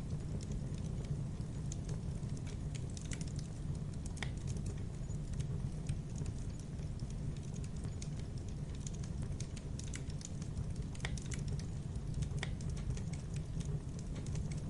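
Campfire burning: a steady low rumble with irregular sharp crackles and pops from the burning wood, a few louder snaps among them, about four seconds in and twice more later.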